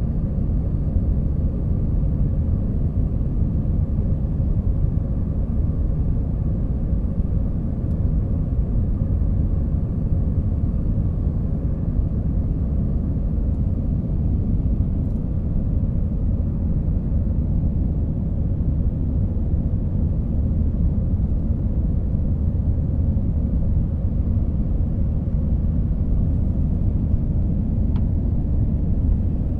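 Jet airliner cabin noise in flight: a steady low rumble of engines and rushing air, with a faint steady hum over it.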